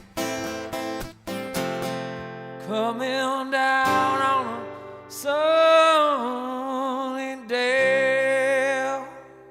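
Acoustic guitar strummed a few times, then three long held notes from a voice over the ringing guitar, fading out as the song ends.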